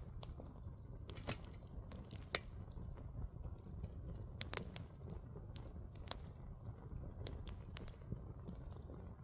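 Firewood burning: a low steady rumble of flames with irregular sharp pops and crackles from the wood, the loudest snap a little over two seconds in.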